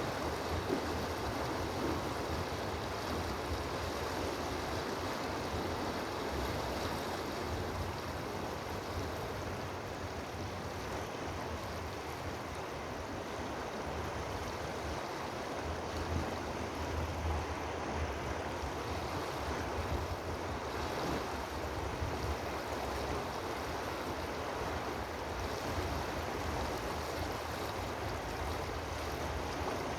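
Steady rushing of moving water, with a fluctuating low rumble underneath.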